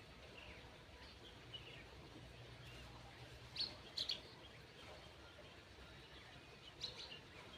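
A few short bird chirps, two close together midway and one more near the end, over a faint steady outdoor background.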